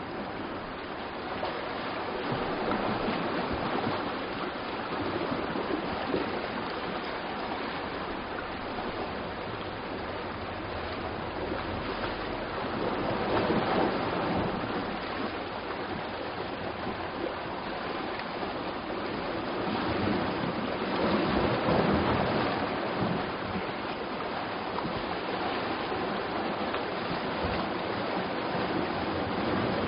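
Sea waves washing against a rocky shore: a steady rush of surf that swells and eases, with louder surges roughly every eight to ten seconds.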